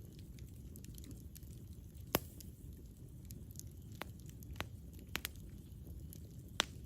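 Campfire burning: a low, steady rumble of flames with scattered crackles and a few sharp pops from the wood, the loudest about two seconds in and near the end.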